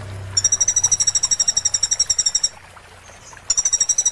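A small songbird, the kolibri (sunbird) of a masteran track, giving a rapid, very even high-pitched trill, twice, with a pause of about a second between.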